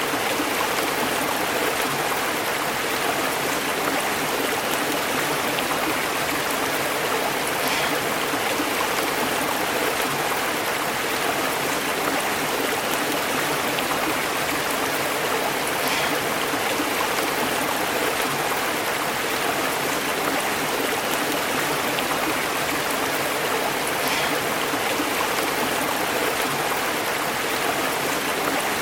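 Stream flowing and burbling over rocks: a steady, even rush of water.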